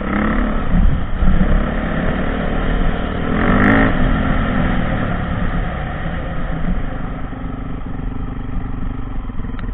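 Dirt bike engine running and revving, swelling to its loudest about three and a half seconds in, then slowly fading.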